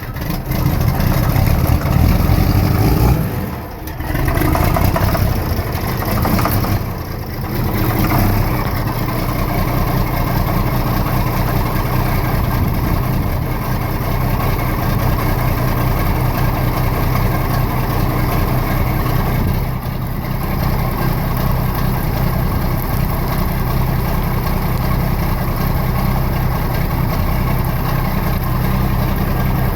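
John Deere 4430's six-cylinder diesel engine running just after a cold start at 28°F without its block heater plugged in. The engine sound dips briefly twice in the first eight seconds, then settles into a steady idle.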